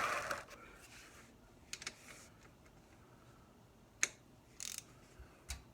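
Light handling noise: a brief rustle fading out at the start, then a few scattered small clicks and short scuffs, the sharpest about four seconds in.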